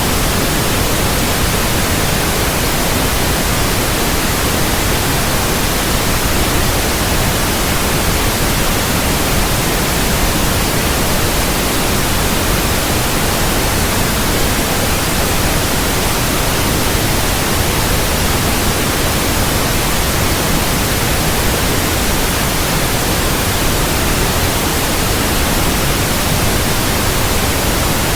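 Steady, even white noise hiss covering the whole range of pitch, unchanging throughout, played as a baby-sleep sound.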